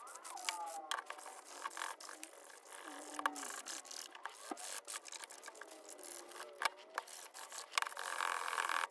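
Hand sanding the painted metal body of a diecast model car with sandpaper: irregular scratchy rubbing with many small clicks and scrapes, and some thin squeaky tones. It turns into denser, steadier rubbing near the end.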